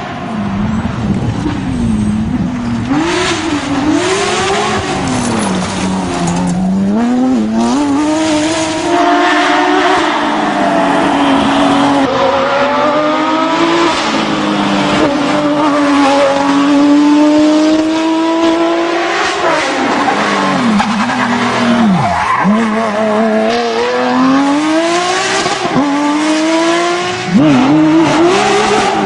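Porsche 911 GT3 rally car's flat-six engine revving hard, its note climbing through the gears and dropping sharply on shifts and lifts, over and over. It gets louder near the end.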